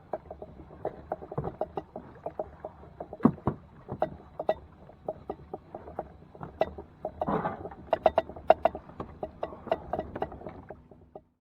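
Irregular hollow knocks and clatter of gear against a plastic fishing kayak, several a second at times, with a brief rush of noise about seven seconds in; the sound cuts off suddenly near the end.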